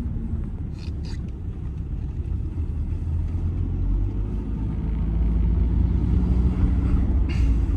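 Audi A6 C6 2.0 TDI four-cylinder diesel car on the move, with a low engine and road rumble growing louder through the second half as it gains speed. A faint engine drone rises in pitch. Short clicks come about a second in and again near the end.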